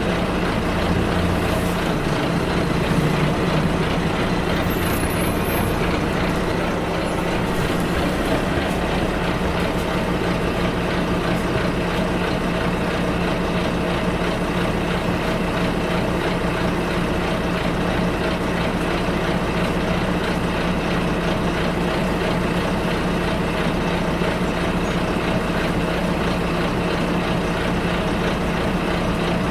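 Bus ride heard from inside the cabin: the engine hums steadily under continuous road and rolling noise.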